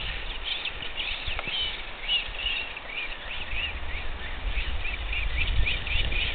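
Small birds chirping in quick, repeated short notes, over a low rumble.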